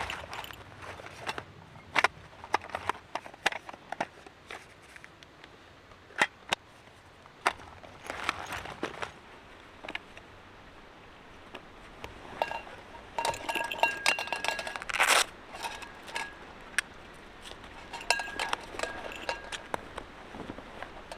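Metal camp gear being handled: irregular clinks and clatters, with short bursts of metallic ringing at several pitches about halfway through and again near the end.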